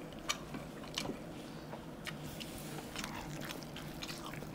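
Faint eating sounds: a mouthful of naan and fried rice being chewed, with scattered soft wet clicks and smacks of mouth and fingers.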